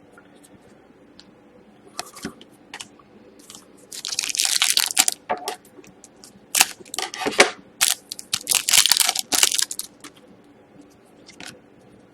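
Trading-card pack wrapper being torn open and crinkled in three bursts of about a second each, with small clicks and rustles of cards being handled in between.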